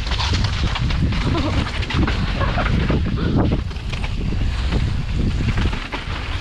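Heavy wind buffeting the action camera's microphone: a constant loud low rumble, with scattered knocks and rattles through it.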